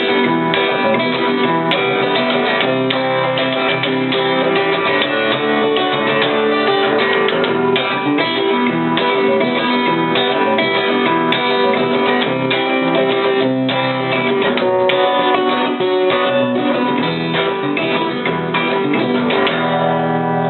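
Acoustic guitar strummed in a steady rhythm, playing the instrumental close of a song after the last sung line. Near the end the strumming stops and a final chord rings out.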